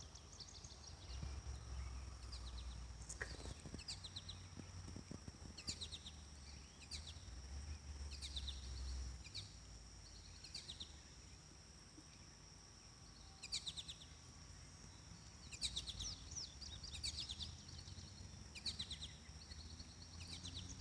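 Small birds chirping and singing in short high phrases, repeating every second or two, over a steady high-pitched drone and a faint low rumble.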